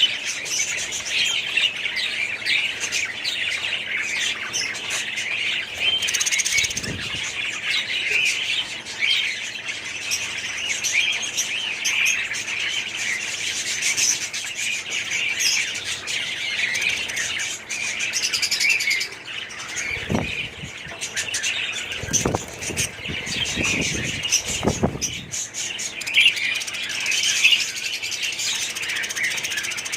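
A colony of budgerigars chirping and chattering continuously, many birds at once, with a few brief flurries of wing flapping, once early and several times about two-thirds of the way through.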